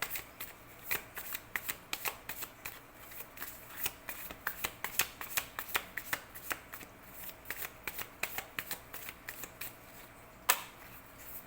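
A deck of tarot cards being shuffled by hand: a quick, irregular patter of card clicks and riffles, with one louder snap near the end.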